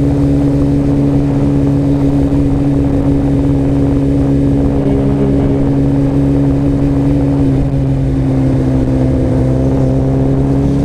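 Kawasaki Ninja ZX-14R's inline-four engine running at steady low revs in slow traffic, its pitch dipping slightly about two-thirds of the way through, over a low rumble on the microphone.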